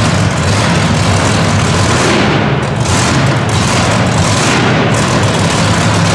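Monster truck engine running hard at high revs, a loud, continuous noise that swells several times.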